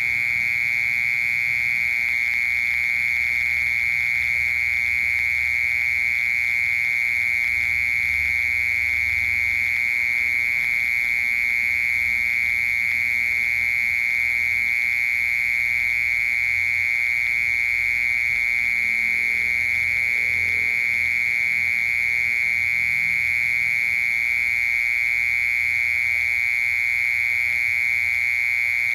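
A cricket's steady, unbroken trill: one high buzzing tone held without pause.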